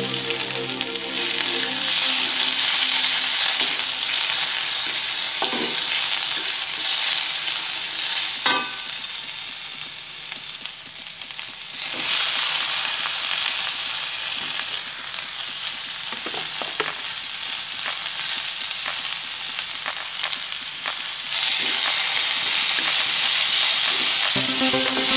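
Hot oil sizzling in an aluminium wok while a wooden spatula stirs and scrapes, with a few sharp knocks of the spatula on the wok. The sizzle surges about twelve seconds in as sliced chayote is tipped into the pan.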